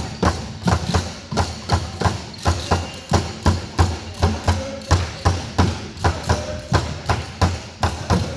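Fast, even thumping, about three to four beats a second, with faint held tones underneath.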